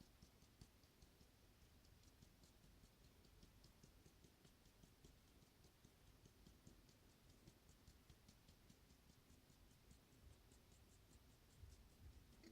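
Near silence, with faint, light ticking, several small clicks a second.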